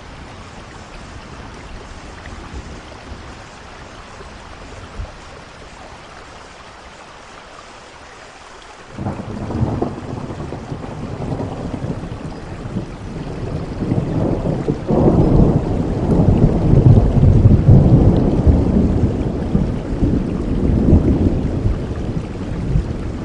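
Steady rain, with a rumble of thunder that starts suddenly about a third of the way in, swells to its loudest a little past two-thirds of the way, and keeps rolling over the rain.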